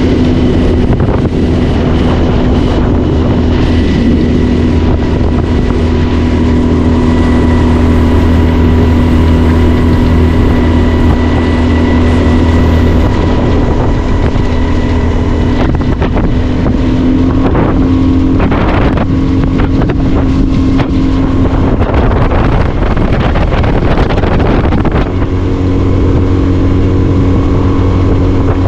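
Boat's outboard motor running steadily under way, its pitch shifting slightly past the middle, with wind on the microphone.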